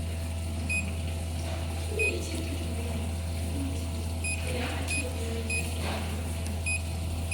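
Handheld laser welding machine running with a steady low electrical hum, and short high electronic beeps: one, then groups of three about half a second apart.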